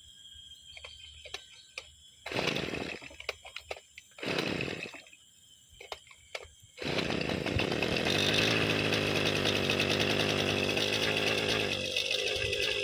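Two-stroke brushcutter engine being pull-started after six months unused: two short pulls on the recoil starter that don't catch, then about seven seconds in it starts and keeps running steadily, its note changing near the end. It is hard to start, a sign of the long storage.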